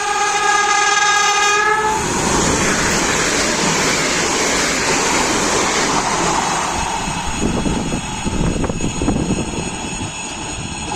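Train horn sounding a held chord that cuts off about two seconds in, followed by the loud rush of a train passing close by, with wheel clatter over the rail joints near the end.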